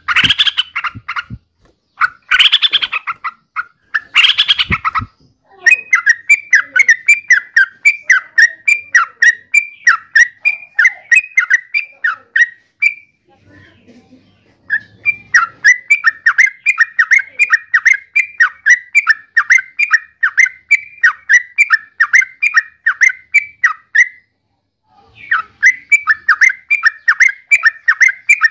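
Yellow-vented bulbul singing: a few loud bubbly phrases, then long runs of quick repeated chirping notes, about four or five a second, broken by two short pauses.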